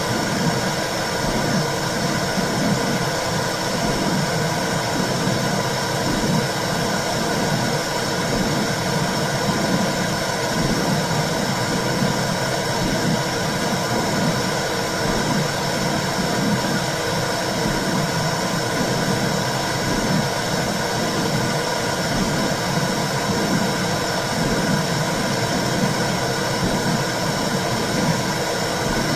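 Womb sound, as heard from inside the mother's uterus: a steady low whooshing with a regular soft pulsing.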